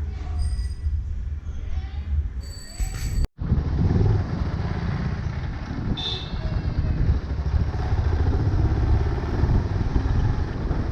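Bajaj Pulsar 220F motorcycle running on the road, a steady low rumble of engine and road noise. The sound cuts out briefly about three seconds in.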